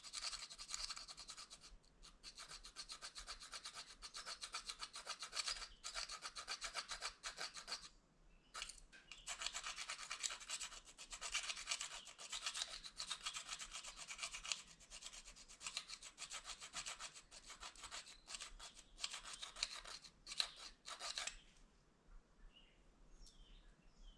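Plastic fork scraped rapidly back and forth along the edge of a plastic spoon: a fast, rasping scratch of many short strokes, to sharpen the spoon. It breaks off briefly about eight seconds in and stops a few seconds before the end.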